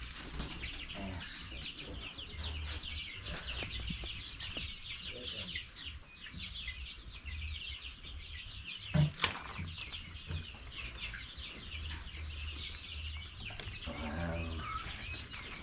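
A flock of young chickens peeping all together, a steady chorus of many short high chirps. There is a sharp knock about nine seconds in.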